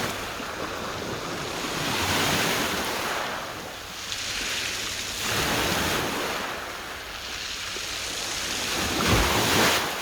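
Small sea waves washing onto the shore, swelling and ebbing three times, with wind on the microphone.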